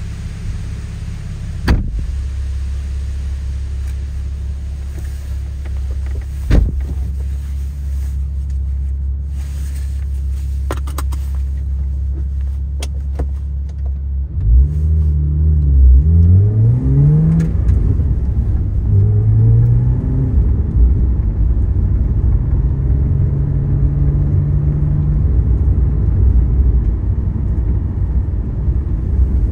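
Porsche flat-six engine idling steadily, heard from inside the cabin, with two sharp knocks in the first seven seconds. About halfway through it revs in quick rising sweeps and pulls away, then runs under load with its pitch climbing and stepping down through gear changes.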